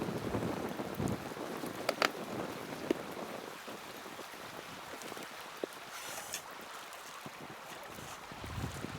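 Small wood fire crackling, with a few sharp pops and a brief hiss about six seconds in. Wind rumbles on the microphone in the first second and again near the end.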